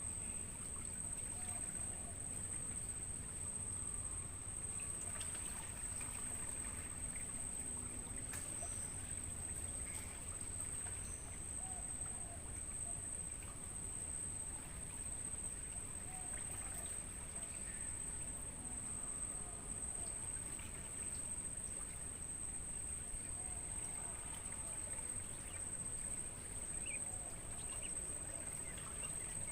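Crickets trilling in one unbroken, high-pitched, steady drone, with scattered short bird chirps faintly over it.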